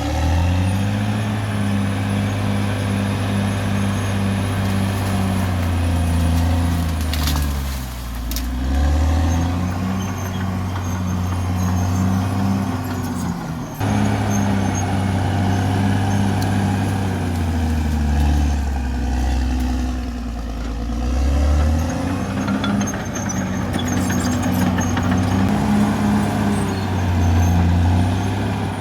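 Caterpillar D6R XL bulldozer's diesel engine working under load, its pitch dropping and recovering several times as the blade loads up, with a thin high whine riding above it.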